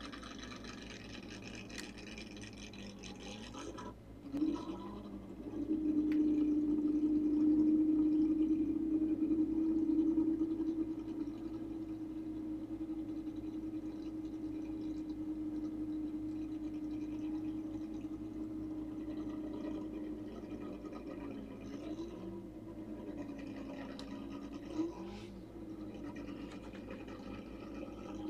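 Car engine running at a steady fast idle, its pitch rising about four seconds in and dipping and climbing a few times near the end as it is blipped.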